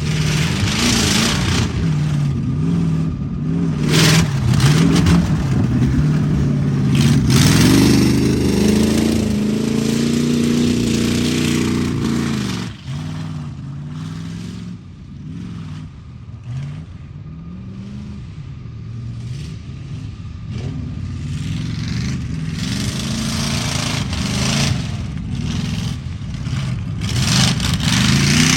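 Truck engine revving hard over and over, its pitch climbing and dropping, loudest about eight to twelve seconds in, with knocks and clatter mixed in.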